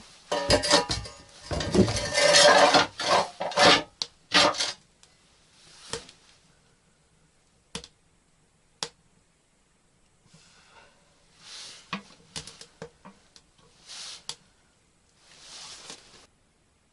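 Dishes and utensils clattering and clinking in a dense run for about the first five seconds. After that come a few separate sharp clicks and some soft rustling swishes.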